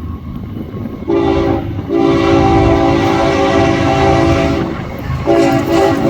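Diesel freight locomotive's air horn sounding a multi-note chord in separate blasts: a short one about a second in, a long one lasting nearly three seconds, and another starting near the end, over the low rumble of the approaching train. It is the warning signal blown for the grade crossing.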